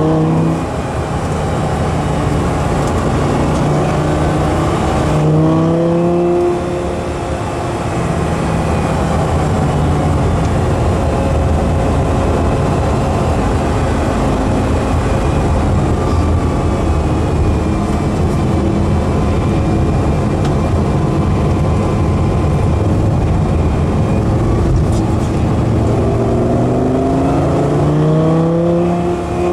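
A car engine running hard. Its pitch climbs steeply about five seconds in and again near the end, and holds as a steady drone in between.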